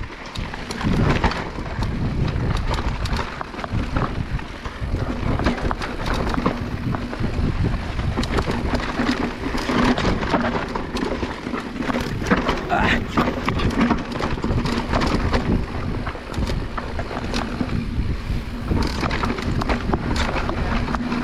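Electric mountain bike riding down a rocky trail: tyres crunching and rattling over stones with frequent knocks and clatter, and wind buffeting the microphone. A steady low hum runs underneath.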